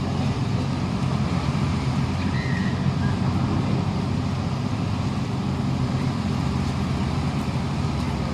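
Heavy diesel truck engines running with a steady low rumble.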